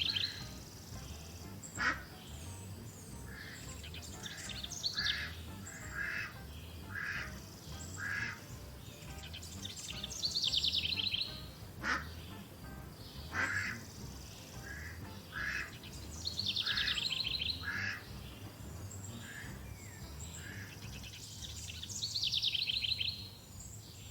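Wild birds calling: four buzzy, rattling trills a few seconds apart, with runs of short calls about once a second between them.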